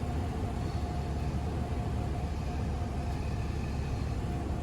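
Cessna 172's piston engine and propeller droning steadily, heard from inside the small cabin on the approach to landing, as a low rumble with a faint steady tone above it.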